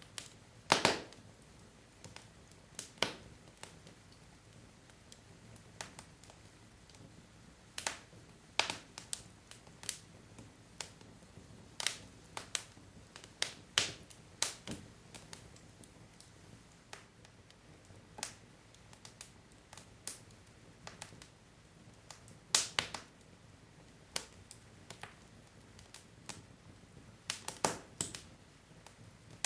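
Wood logs burning in a fireplace, crackling with irregular sharp pops and snaps over a soft low hiss of the flames.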